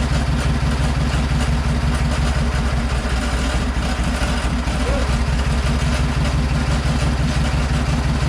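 An engine idling steadily, running without change in speed.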